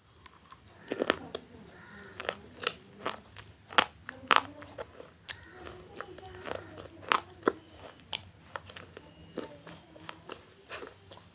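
Close-miked biting and chewing of crunchy food: irregular sharp crunches, some loud and some soft, at uneven intervals.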